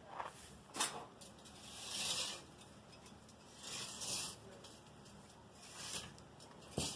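Metal hand tool working the ground: two sharp knocks in the first second, scraping strokes about two seconds apart, and another knock near the end.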